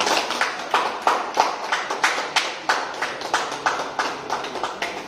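A few people clapping, sharp irregular claps about three or four a second.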